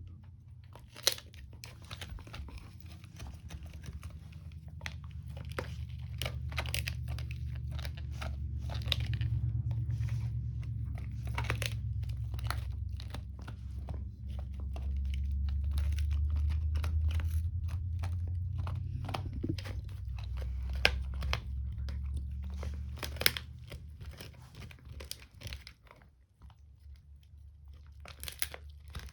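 Dog gnawing a rawhide chew: irregular crunching, cracking bites with a short pause near the end. Underneath, a low rumble swells twice and is the loudest part.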